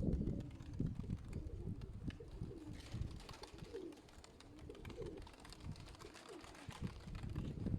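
Domestic sickle-winged pigeons cooing, repeated gliding coos one after another, over low thuds and rumble.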